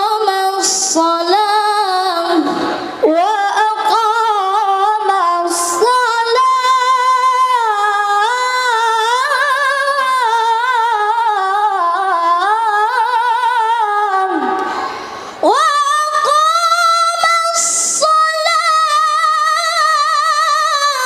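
A child qari reciting the Quran in melodic tilawah style: long ornamented phrases in a high voice, with wavering held notes and melismatic runs. It breaks for breath about three seconds in and again about fifteen seconds in, starting each new phrase straight after.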